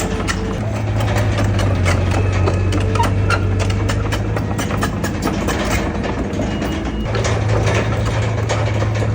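Heavy diesel engine of earthmoving machinery running and working. It picks up about half a second in, eases off a little past the middle, then picks up again near the end, over frequent metallic clanks and rattles.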